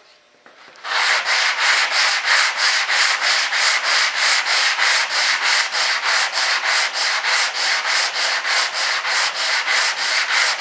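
Sandpaper on a sanding block rasping back and forth over body filler (Bondo), fast even hand strokes about four a second, starting about a second in. The filler is being cut down flat.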